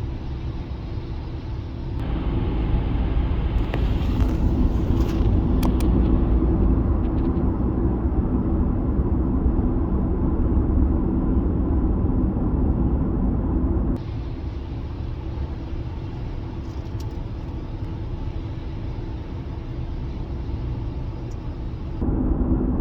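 City street ambience: a steady low rumble of passing traffic, with faint clicks and knocks now and then. The rumble shifts abruptly in loudness a few times as the recording cuts between street scenes.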